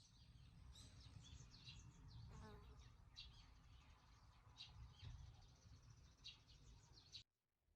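Small birds chirping in short, scattered high notes, faint, over a low rumble; the sound cuts off abruptly near the end.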